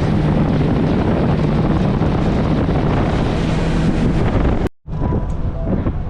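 Four-stroke engine of a 2018 Yamaha FX HO jet ski running steadily at speed, with wind buffeting the microphone and rushing water. The sound cuts off abruptly about three-quarters of the way in and gives way to a quieter, different rumble.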